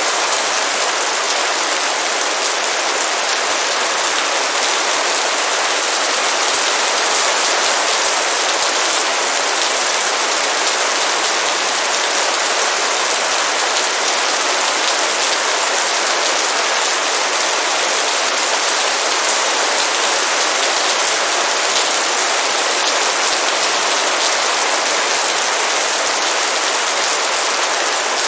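Heavy rain falling in a steady downpour, a dense even hiss of many drops hitting a surface.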